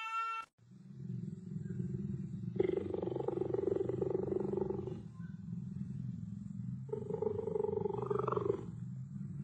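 A cat growling: a continuous low rumble, swelling into two louder growls about two and a half seconds and seven seconds in.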